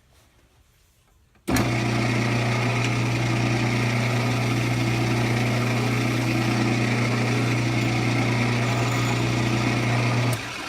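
Wood lathe switched on about a second and a half in, its motor running at a steady hum. It is switched off near the end and starts to wind down.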